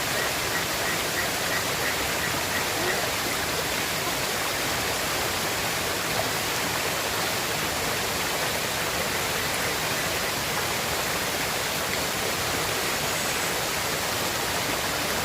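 River water rushing steadily. A faint, quick series of high peeps sounds during the first three seconds.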